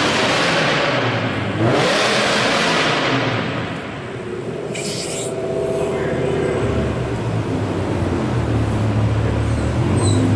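Chevrolet C8 Corvette Z06 with an aftermarket exhaust. Two loud bursts of engine and exhaust noise each fade away over a second or two, then a lower, steady rumble sets in about six seconds in.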